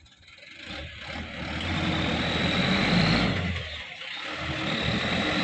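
Sand-loaded dump truck's engine revving hard under load, building up, easing briefly near the middle, then building again, as the truck strains to pull out of the sand it has sunk into.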